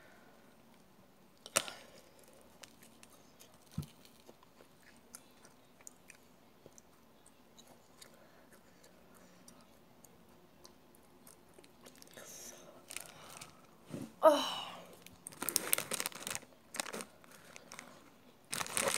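Close-up chewing of a soft pink sweet with a strawberry-jam-like filling: quiet mouth sounds with occasional small clicks. About fourteen seconds in comes a brief vocal sound, then a short burst of crackling noise.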